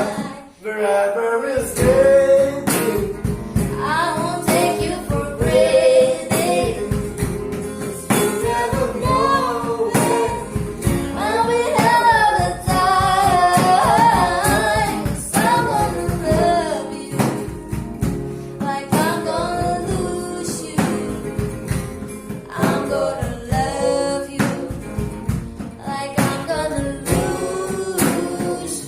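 A cover song sung with guitar and percussion accompaniment, the sung melody carried over a steady beat. The music drops briefly about a second in, then runs on.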